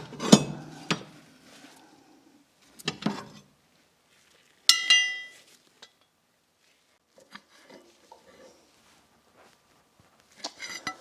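Metal tools and parts clinking and knocking against each other: a few knocks in the first second, another about three seconds in, and a sharp ringing metallic clink about five seconds in that dies away, then small faint rattles.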